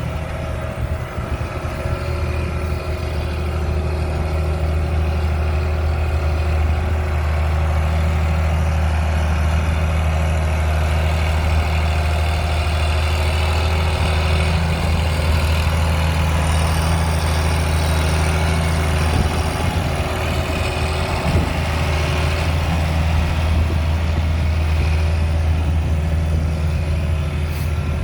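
John Deere 8320 MFWD tractor's six-cylinder diesel engine running steadily at a low, even speed.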